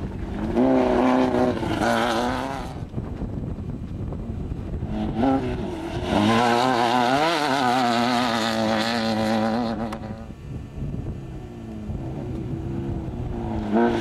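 Off-road race car and truck engines running hard as the vehicles pass, revs rising and falling: a short pass about half a second in, a longer one from about six to ten seconds, and another vehicle arriving at the very end.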